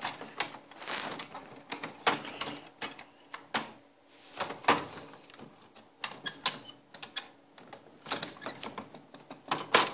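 Irregular plastic clicks, knocks and rattles from a part being worked out of the top scanner housing of an HP LaserJet Pro MFP M127fw, with its snap latches being pried loose.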